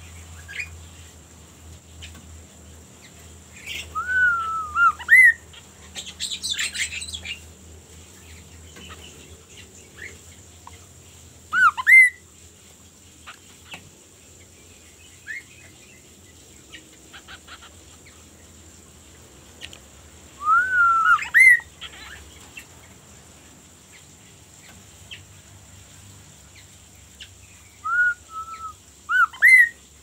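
Caged chestnut-capped babbler calling: short whistled phrases, each ending in an upward swoop, repeated four times about every eight seconds, with a harsher rasping burst about six seconds in.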